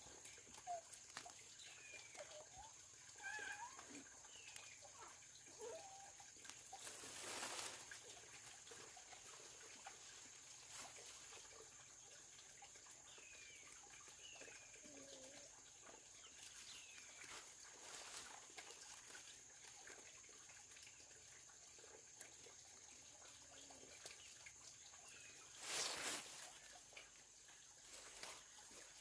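Faint, scattered bird chirps over a steady high hiss, with two brief rustling swishes, one about a quarter of the way in and one near the end.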